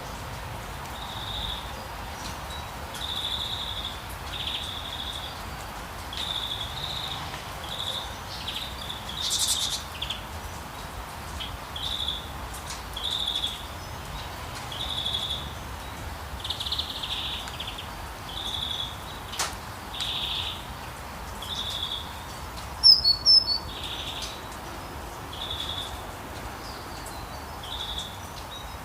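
Songbirds calling with short, repeated notes every second or two over a steady hiss of rain. Past the middle, a louder, higher, sharper call comes in briefly.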